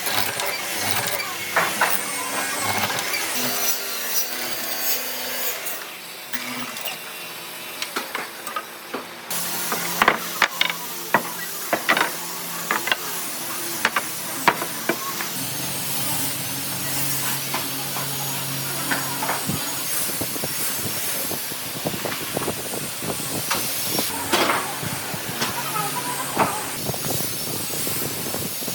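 Woodworking shop sounds: scattered sharp clicks and knocks of tools and wood over a steady hiss, the knocks thickest in the middle.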